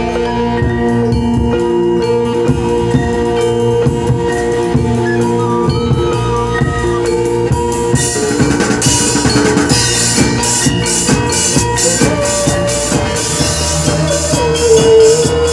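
Band playing an instrumental break: held instrument tones over a drum kit. About halfway through the drumming gets busier and brighter with cymbals, and a melody line comes in near the end.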